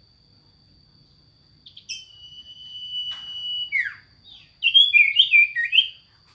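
A sirtu songbird singing: one long level whistle, a falling note, then a quick run of stepped whistled notes, the loudest part near the end. A steady high insect trill runs underneath.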